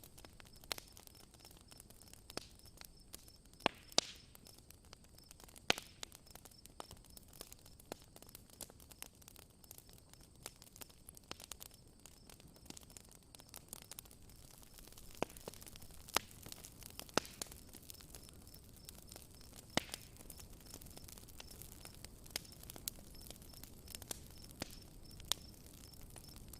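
Wood fire crackling, with sharp irregular pops and snaps over a soft hiss. A steady high pulsing chirp, like crickets, runs faintly underneath.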